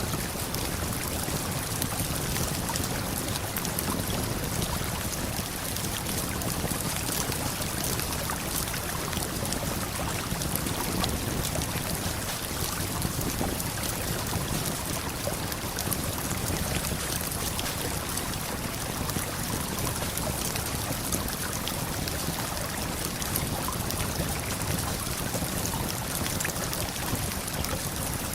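Steady rush of a waterfall and flowing river, with faint scattered crackles from a campfire.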